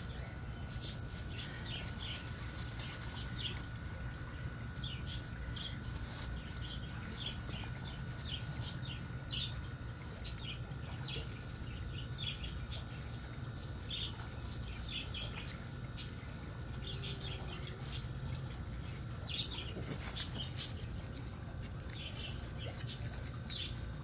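Small birds chirping on and off in short high notes, over a low rumble and a faint steady high whine that drops out briefly near the end.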